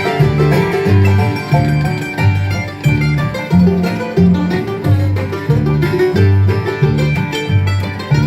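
Live bluegrass band playing an instrumental break, banjo and guitar picking over a steady bass line of alternating low notes about two a second, with no singing.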